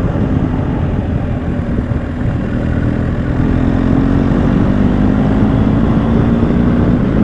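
BMW motorcycle-and-sidecar engine running at road speed, easing off slightly about two seconds in and pulling harder again from about three and a half seconds on.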